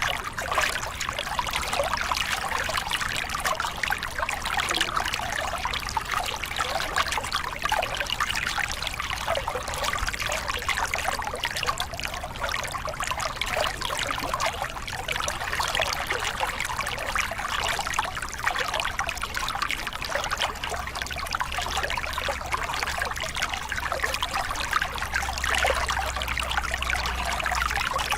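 Small cascade on a river: water pouring and splashing over rocks in a steady, unbroken rush.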